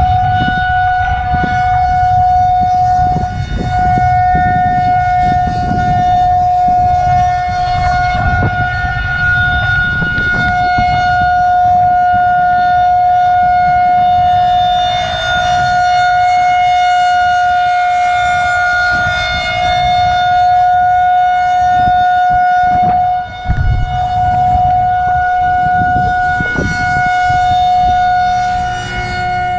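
Federal Signal 2001-130 rotating electromechanical outdoor warning siren sounding a steady held tone during a test, with only slight swells in level as it turns.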